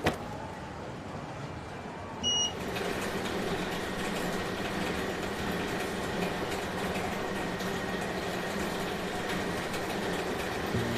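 A short beep, then an airport luggage-wrapping machine's motor starts and runs steadily with a low hum and a thin high whine, wrapping a split suitcase in plastic film for check-in.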